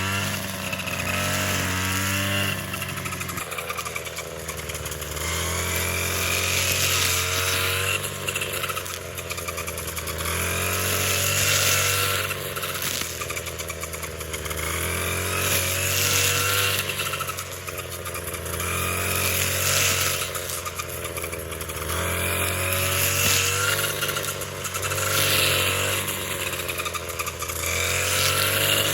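A small engine-driven tool revving up and dropping back again and again, with loud peaks about every four to five seconds, like a machine being worked under load.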